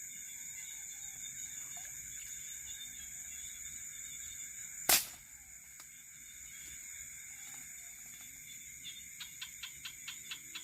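A single sharp air-rifle shot about five seconds in, over a steady chorus of night crickets and insects. Near the end there is a quick run of faint ticks.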